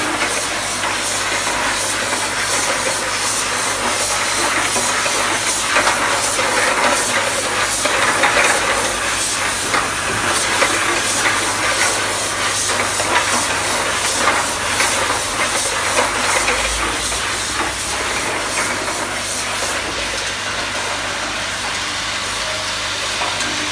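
A bottle-processing machine running on a test, a steady hiss of air with a low mains-like hum and rapid, regular mechanical ticking; the high hiss eases off near the end.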